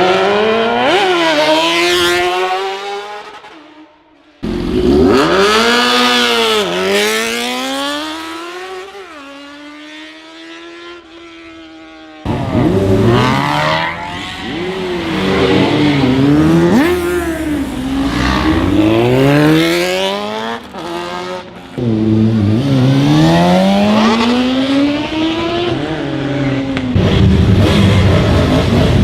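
Superbike engines revving hard, their pitch climbing and dropping with repeated throttle blips, in several abruptly cut segments. In one segment, a few seconds in, the engine note falls and fades as the bike moves off.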